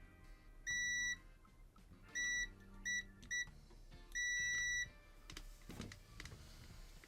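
Multimeter continuity tester beeping five times, short and longer beeps in one steady high pitch, as the probes find a short to ground on the diffuser's circuit board. Faint background music underneath.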